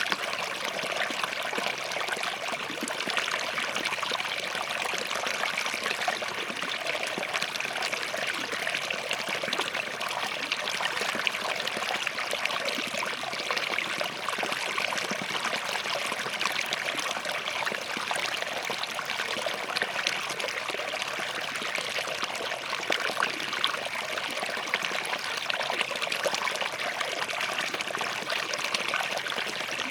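A small forest stream flowing and trickling over rocks, a steady babbling rush of water.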